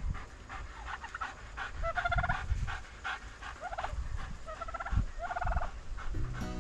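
Domestic turkeys gobbling: four short, rapid rattling calls, with a few low thumps.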